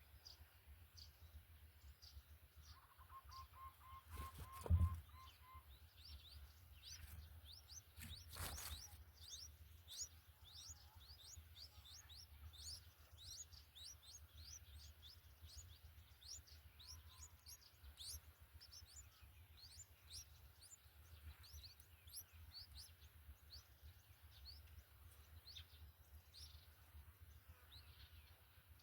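Faint, rapid high-pitched bird chirping, several short falling chirps a second throughout, over a steady low rumble. A brief run of quick, even, lower notes comes about three to five seconds in, and two knocks stand out, the loudest about five seconds in and another near eight and a half seconds.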